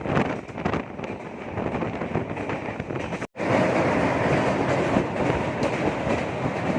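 Express passenger train running on the rails, heard from aboard: a steady rumble of wheels on track with some wind. The sound cuts out for an instant about halfway through and comes back louder.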